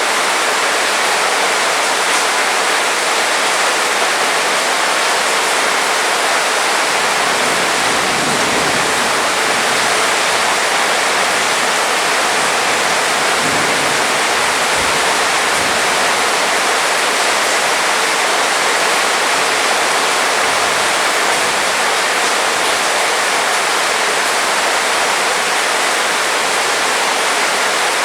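Heavy rain falling steadily, a dense, even hiss of water with no break.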